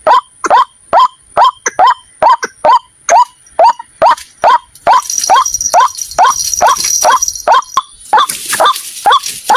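White-breasted waterhen calling: a fast, even series of loud, short notes, each rising in pitch, a little over two a second. From about five seconds in a steady high-pitched hiss runs underneath.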